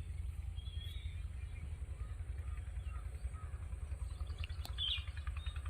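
Outdoor ambience of a low, fluttering wind rumble on the microphone, with faint bird chirps; one chirp stands out near the end.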